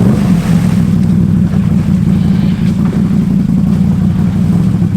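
Can-Am Outlander ATV's V-twin engine running at a steady, fairly constant speed close by, with a fast even pulsing from the exhaust.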